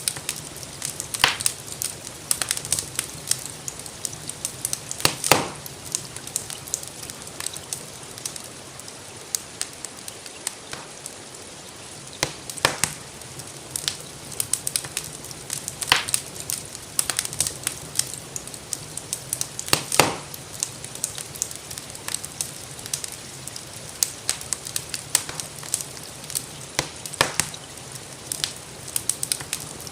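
Wood fire crackling with frequent small snaps and several louder pops, over a steady hiss of gentle rain.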